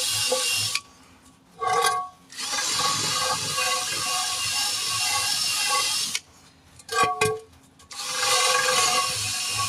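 Cordless power tool running on a nearly dead battery, in long bursts. It cuts out twice for about a second, with a brief blip of the trigger in each pause.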